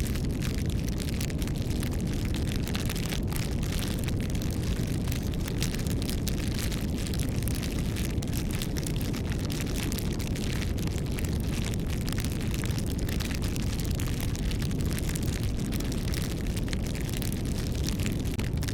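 Wood bonfire crackling: a constant scatter of small pops and snaps over a steady low rumble.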